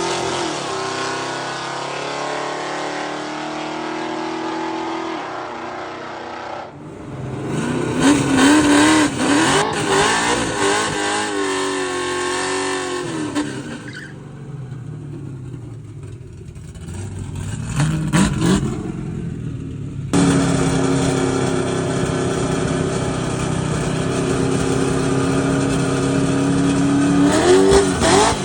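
Drag-racing cars' engines idling and revving, with the sound cutting abruptly between several short stretches. An engine revs up and down sharply about a third of the way in and again past the middle.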